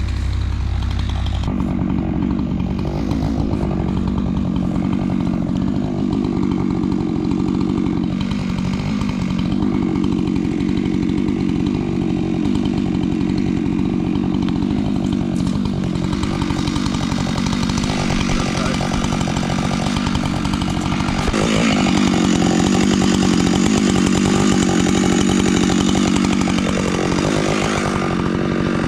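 Husqvarna chainsaw running at high revs while cutting wood. Its steady engine note briefly drops and picks back up several times as the cut loads and eases off.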